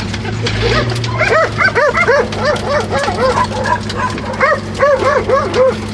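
Dogs barking in a rapid string of short, high barks, about three a second with a brief break in the middle. The Jeep CJ5's engine runs steadily underneath.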